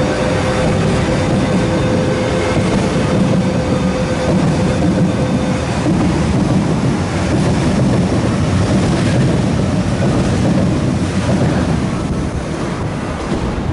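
MTR East Rail Line electric train pulling out and running past close by: a steady rumble of wheels and motors, with a held tone over it for the first five seconds or so. The sound eases a little near the end as the last car goes by.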